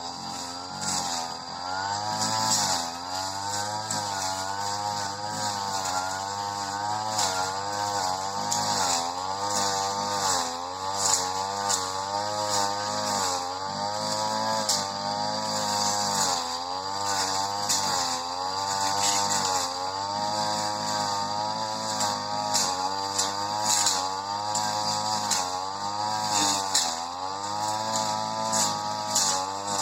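Supra SPR328 two-stroke brush cutter running at high revs while cutting tall, dense grass; the engine pitch dips under load and recovers again and again, roughly every one and a half seconds, with scattered clicks throughout.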